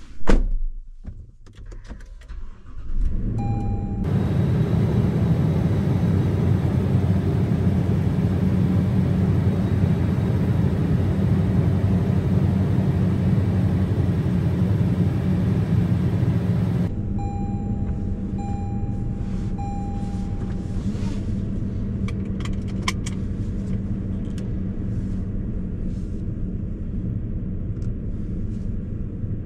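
Supercharged Toyota Land Cruiser V8 starting about three seconds in and running at a high idle, which settles to a lower idle about two-thirds of the way through. A thump comes just before the start. A chime beeps three times as the idle drops, and light clicks and key jingles follow.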